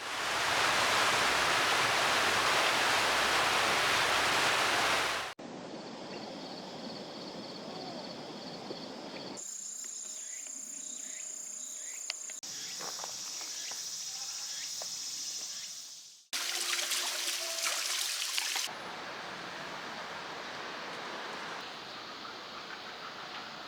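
Outdoor ambience in a run of short clips that change abruptly. It opens with about five seconds of loud rushing water, followed by quieter natural background sounds.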